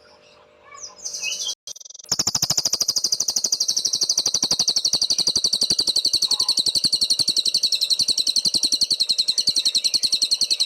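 A cililin songbird singing a rapid, high-pitched, unbroken trill. It starts about two seconds in after a brief gap and holds steady.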